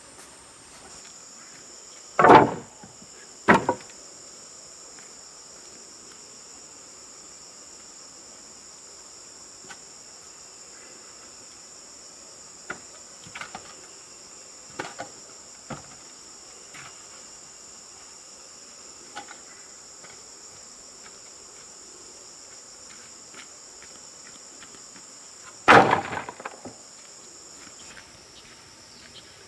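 Insects chirring steadily in a high, even drone. Two loud knocks come a few seconds in and another near the end, with fainter taps between.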